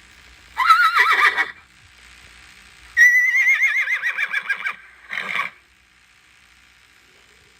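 Horse whinnying: a short quavering whinny, then a longer one of nearly two seconds that wavers and falls in pitch, and a brief third call about five seconds in.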